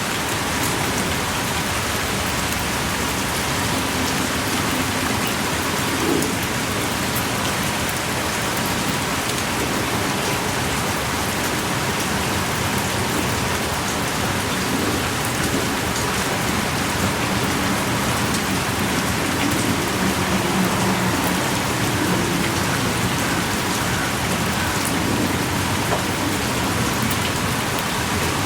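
Steady heavy rain pouring, with scattered drops ticking close by.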